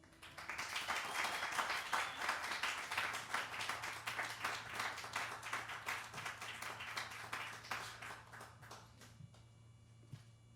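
Small audience applauding, starting at once, holding for several seconds, then thinning to a few scattered claps and dying away near the end.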